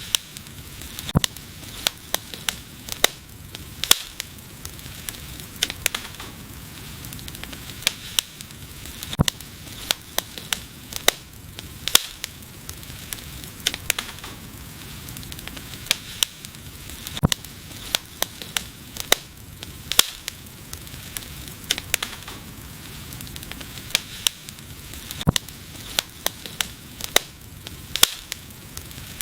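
Wood fire crackling: a steady hiss with sharp, irregular pops, several in some seconds and louder ones every second or two.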